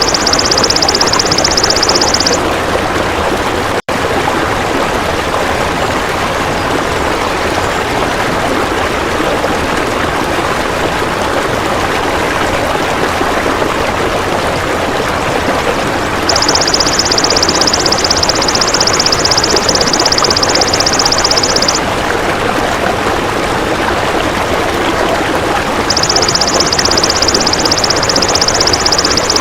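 Golden grasshopper (belalang emas) buzzing in long, even, high trills, three stretches of several seconds each, over a steady rushing-water noise. There is a momentary dropout just before four seconds in.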